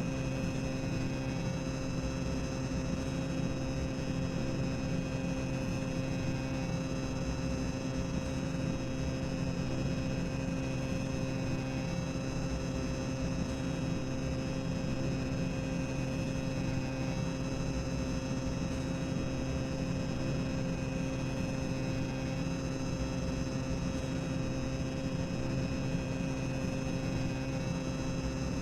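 Boiler-room ambience sound effect: a steady machinery drone, a low rumble under a constant hum, with no distinct events.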